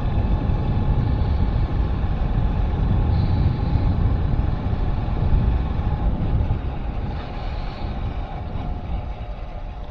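Wind rumbling on the microphone over a vehicle's running as it travels along a road, easing off gradually over the last few seconds.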